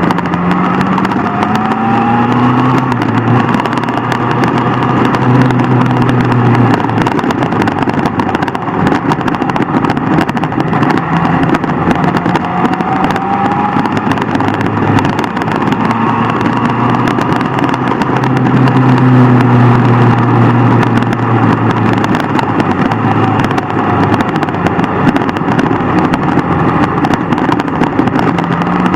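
Superbike engine running hard on the road, its pitch climbing and levelling off several times as it accelerates and shifts through the gears, over a loud, dense rush of noise.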